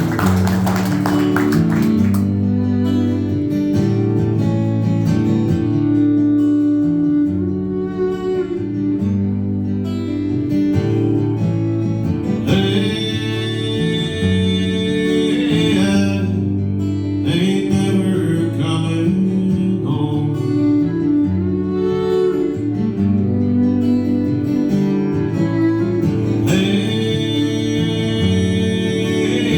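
Live acoustic guitar accompanying a singing voice in a cover song, with steady chords under the melody.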